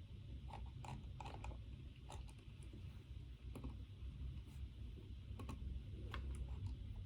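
Computer keyboard typing in irregular, scattered keystrokes over a steady low hum.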